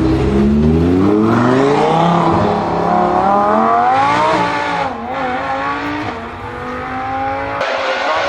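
Car engine accelerating, its pitch climbing steadily for about four seconds, then dipping and settling at a steadier higher pitch, with a change near the end.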